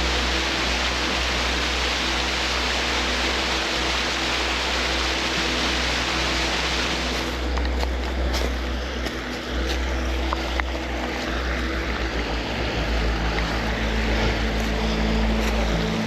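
Steady rushing of a waterfall over background music. About seven seconds in, the rushing cuts off abruptly, leaving the music with scattered faint clicks and snaps.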